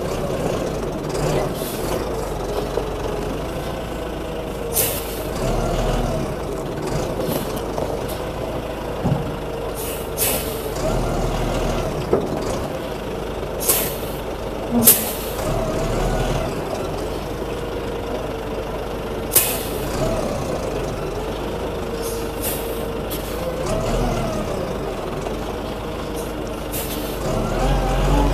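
Concrete mixer truck's diesel engine running steadily on the road, with several short, sharp hisses of air through it.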